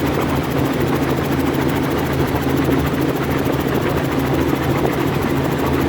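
Helicopter engine and rotors running steadily in flight, a loud constant drone with a fast, even rotor beat.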